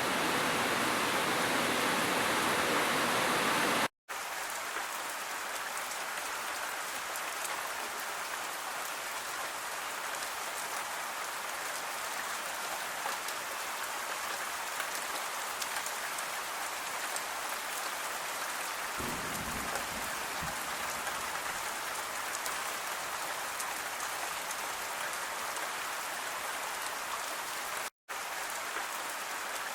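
Waterfall rushing as an even roar, cutting abruptly about four seconds in to steady rain falling, with fine drop ticks. A faint low rumble rises briefly about two-thirds through, and the sound drops out for a moment near the end.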